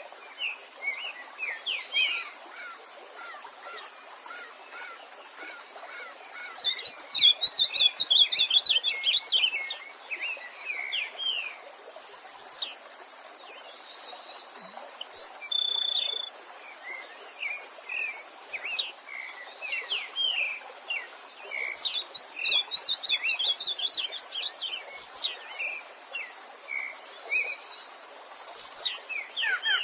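Several wild songbirds singing and calling over a steady stream: quick chirping phrases, with dense bursts of song about a quarter and three quarters of the way through, and sharp, high, falling whistled notes repeated every few seconds.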